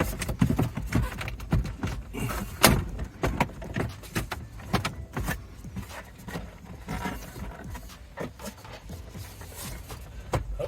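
Plastic dashboard trim panel being tugged and worked by hand, with irregular clicks, knocks and rattles, one sharper knock about two and a half seconds in. The panel does not pop loose because it is still held by a bolt that was missed.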